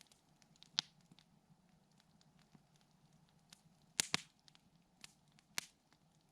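Wood campfire crackling, with small snaps throughout and a few sharp pops: one about a second in, a quick double pop about four seconds in, and another near the end.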